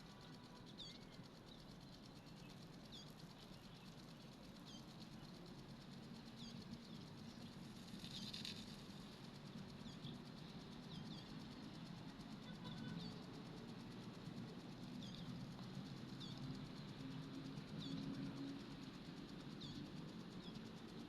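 A small bird chirping again and again: short high chirps, about one a second, with a brief louder burst about eight seconds in. Under it runs a faint, low, steady rushing.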